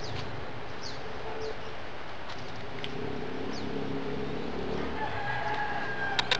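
Birds calling outdoors: several short, quick falling chirps, with a few sharp clicks and a brief held whistle near the end, over a steady low rumble.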